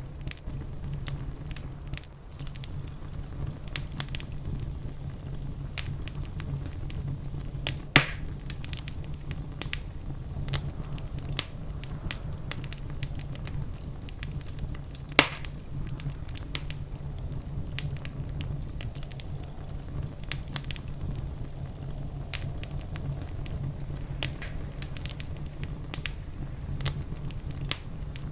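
Wood fire crackling in a fireplace: a steady low rumble of flames under frequent sharp pops and snaps, with two louder pops, one about eight seconds in and one about fifteen seconds in.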